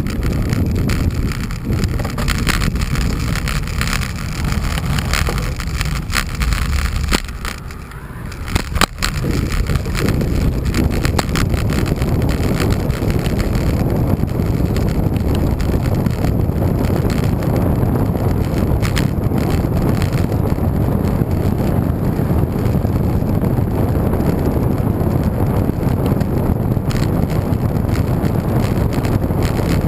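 Wind rushing over the microphone of a camera riding along on a road bike, a dense, loud low rumble. Sharp clicks and rattles come through in the first several seconds, before the wind noise thickens at about ten seconds in.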